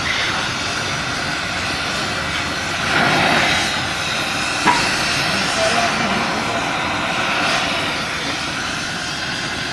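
Steady mechanical running noise from machinery, with one sharp knock about halfway through.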